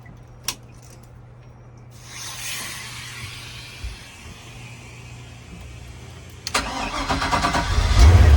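A Four Winns Horizon 260's inboard engine being started for a flush: the starter cranks it with rapid, even strokes for about a second and a half, then it catches and runs loud and low. Before that a steady hiss starts about two seconds in, over a low hum.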